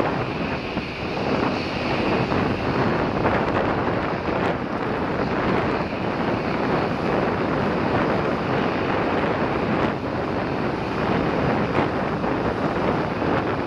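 Boeing 737-800's CFM56 turbofan engines at takeoff thrust as the jet climbs away: a steady, loud rushing rumble, with wind buffeting the microphone.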